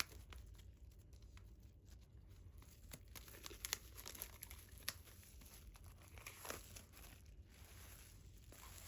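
Plastic wrapping on a CD album being cut open along the top and peeled away: faint crinkling and tearing with a few sharp clicks.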